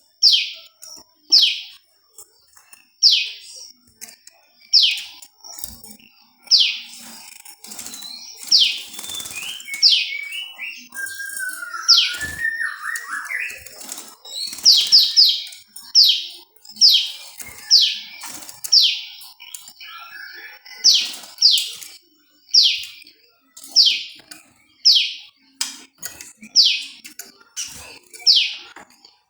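Prenjak lumut songbird calling: a long series of sharp, high notes, each falling steeply in pitch, roughly one every second, with a quick run of three or four near the middle. A softer, lower warble comes a little before that.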